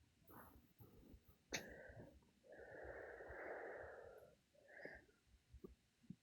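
Faint breathing close to the microphone, with one long exhale from about two and a half to four and a half seconds in, amid near silence.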